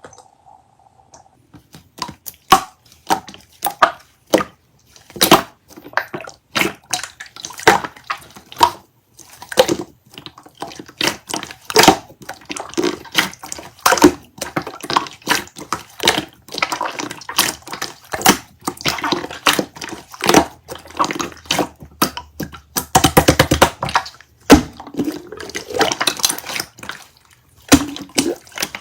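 Clear slime being squished and pressed by hand, making irregular wet clicks and pops several times a second. Near the end there is a dense run of rapid crackling pops.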